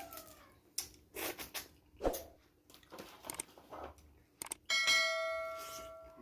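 Eating noises: a series of sharp clicks and crunches as shrimp and noodles are eaten by hand, then a single clear ringing ding near the end that fades over about a second and a half.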